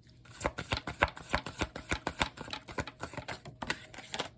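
A deck of tarot cards being handled and shuffled by hand: a quick, uneven run of clicks and taps.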